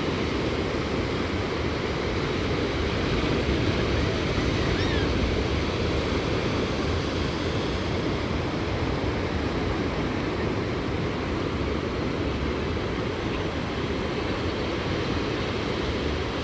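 Calm ocean surf washing on the beach: a steady, even wash of sound that swells slightly a few seconds in.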